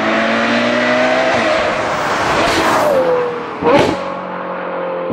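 Ferrari 812 GTS's 6.5-litre V12 running at low revs through a Novitec exhaust with its valves shut in quiet mode. The pitch eases down about three seconds in, and there is a brief sharp rise just before four seconds.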